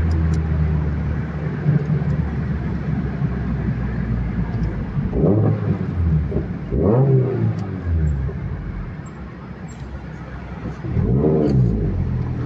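Mazda MX-5 NC's 2.5-litre four-cylinder (Mazda L5) engine, with a catless header and an exhaust cutout, idling and then revved in three short blips, each rising and falling in pitch.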